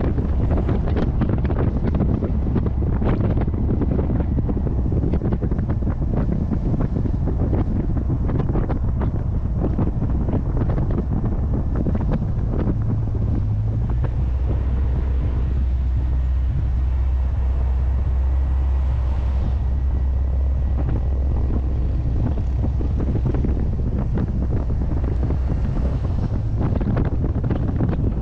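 Heavy wind buffeting on the microphone over the steady low drone of a C3 Corvette's 350 small-block Chevy V8 cruising, the engine note holding most even about halfway through.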